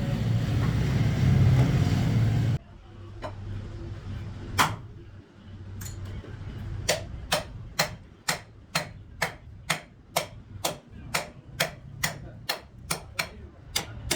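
A loud steady rumble cuts off abruptly, and after a lone knock a run of sharp hammer blows starts up, about two to three strikes a second, steady and even, typical of hammering in hand wheel-making.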